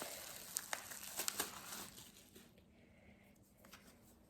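Packaging crinkling and rustling as it is opened by hand, with many small sharp crackles, dying down to faint handling about halfway through.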